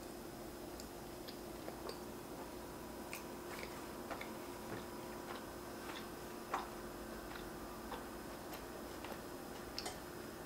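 Close-miked chewing of a cheeseburger bite: soft, irregular wet mouth clicks, one a little louder about six and a half seconds in, over a faint steady hum.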